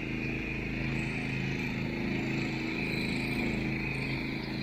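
Home-built zero-turn ride-on lawn mower running steadily with its cutting deck engaged, mowing short, dense grass that loads the engine.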